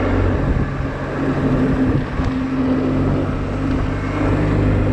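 Honda Silver Wing scooter's engine running at a steady, unchanging note, with a low hum under a hiss of road and air noise.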